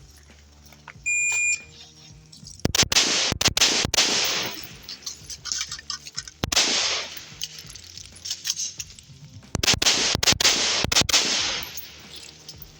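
A shot-timer start beep about a second in, then rifle shots fired in quick strings with pauses between them: a fast group of shots, a single shot, then a second fast group near the end, each with an echoing tail.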